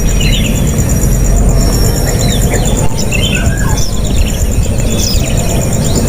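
Small birds chirping with short, quick high notes scattered through, over a loud low rumble and a steady, high pulsing tone.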